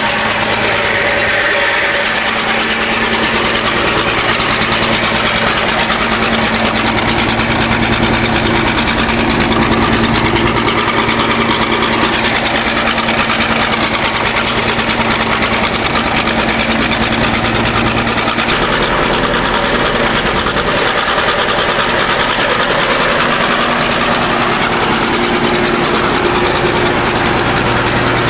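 1953 International TD20 dozer's straight-six engine running steadily on gasoline, with the air cleaner off. It is running on a new homemade exhaust manifold that the owner judges free of exhaust leaks.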